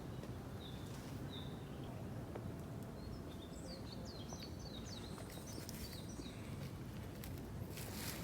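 A small songbird calling in forest: a couple of high notes about a second in, then a quick run of short, falling, whistled notes, over a steady low background noise.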